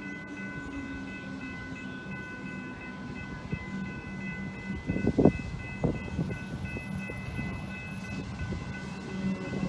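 Electric suburban train at a station, giving off a steady whine of several high tones over a low hum. A few clunks come just after halfway.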